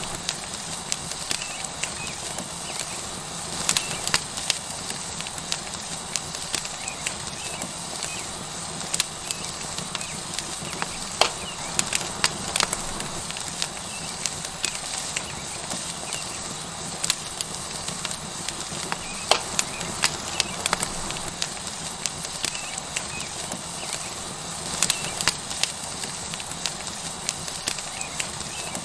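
Tomahawk steak sizzling on a hot rock over a wood fire: a steady hiss with frequent, irregular sharp crackles and pops from the burning wood.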